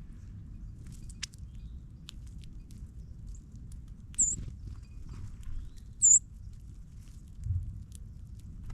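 Two short, high bird chirps about two seconds apart, over scattered faint ticks of small birds pecking at seed on the ground, with a steady low rumble underneath.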